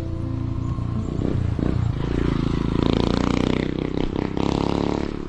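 Motorcycle engine running, getting louder from about two seconds in, with some scraping and clatter.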